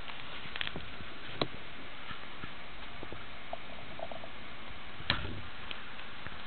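A few sharp light taps and clicks over a steady hiss, the loudest about five seconds in.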